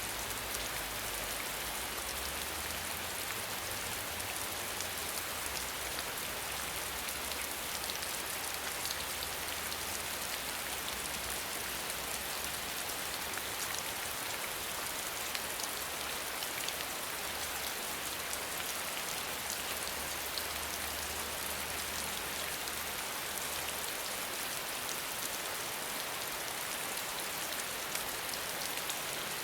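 Steady rain falling, a dense even patter of many small drops hitting a surface. A faint low rumble sits underneath for most of it and stops near the end.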